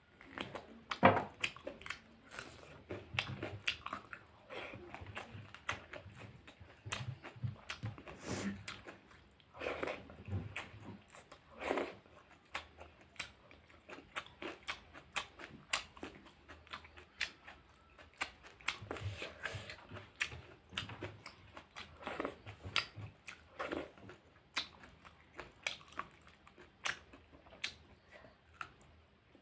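Close-up sound of a person eating pork curry: chewing and biting, with irregular clicks and smacks several times a second and an occasional crunch.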